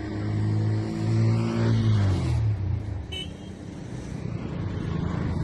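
A motor vehicle engine running, its pitch dropping about two seconds in, over road traffic noise, with a brief high tone a little after the middle.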